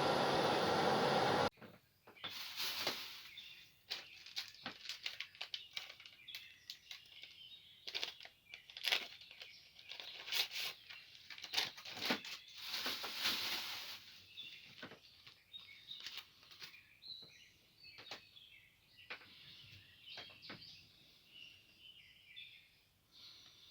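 A steady rushing noise cuts off abruptly about a second and a half in. Birds then chirp and call with quick, high notes, mixed with scattered light clicks and taps.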